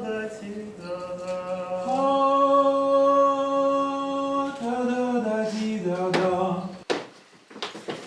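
A single voice singing unaccompanied, holding long sustained notes and stepping between a few pitches. The singing breaks off near the end, followed by a few sharp knocks.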